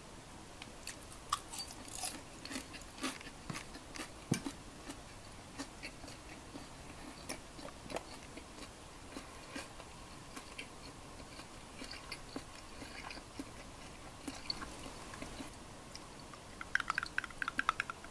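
A person chewing chicken karaage (Japanese fried chicken), with scattered crisp crunches, most of them in the first half. Near the end comes a quick run of clinks from ice in a glass.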